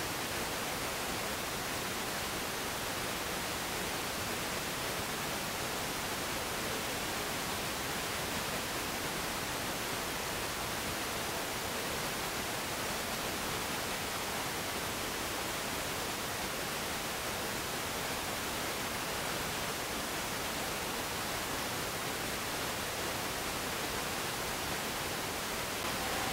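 Steady hiss of static, even and unbroken, with no engine or voice heard through it.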